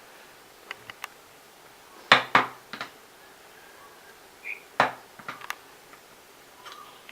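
Knocks and clicks of small wooden parts and tools being handled and set down on a work table: a few light clicks, then two loud knocks close together about two seconds in, another loud knock near five seconds, and a few lighter clicks after it.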